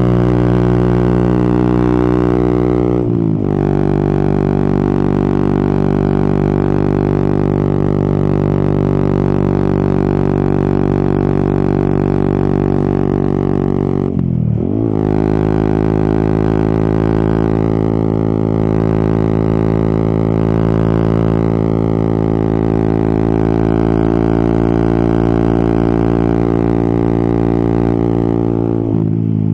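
Yamaha XSR 155 single-cylinder motorcycle engine running at steady revs under way, heard from the rider's position. The engine pitch drops sharply about three seconds in and dips again about halfway through, as with gear changes, then holds steady each time.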